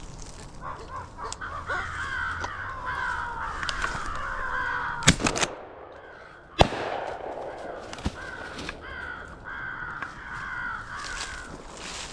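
Crows cawing over and over, interrupted by four shotgun shots: a quick pair a little before the middle, the loudest shot just after, and a weaker one about a second and a half later; the cawing goes on after the shots.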